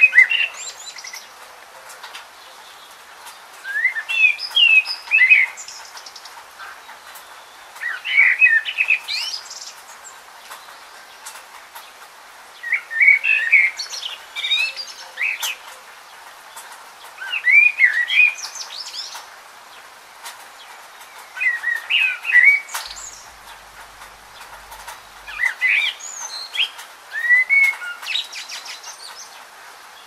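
Bird chirping: clusters of quick, twittering high-pitched calls that come back at even intervals of about four to five seconds, over a faint steady hiss.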